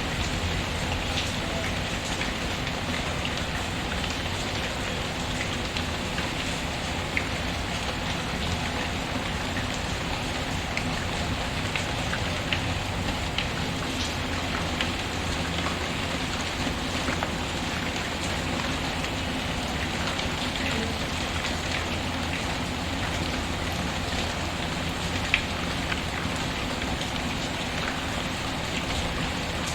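Steady rain pattering, with a few sharp crackles from a wood fire scattered through it; the loudest pop comes near the end.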